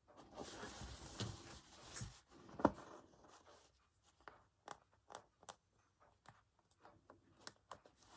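Needle and wool yarn being worked through embroidery fabric: a rustling, scratchy drag for the first few seconds with a sharper click about two and a half seconds in, then scattered light ticks.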